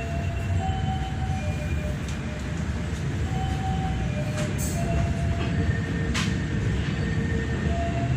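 Passenger train running along the track: a steady low rumble of wheels on rails, with a couple of sharp clicks in the second half.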